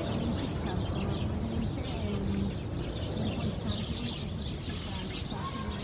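Birds chirping over a steady outdoor background rumble.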